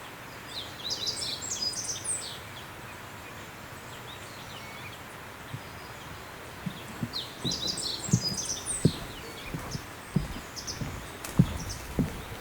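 A songbird sings two quick twittering phrases over a steady outdoor hiss, one about half a second in and another around seven seconds. From about six seconds, the thuds of walking footsteps join in.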